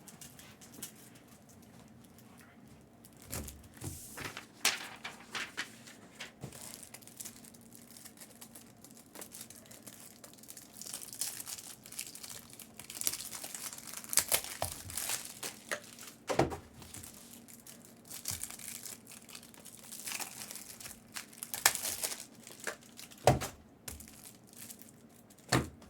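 Plastic and foil packaging of trading-card boxes and packs crinkling and tearing as they are opened by hand, in irregular stretches with scattered sharp knocks of cardboard and cards being handled.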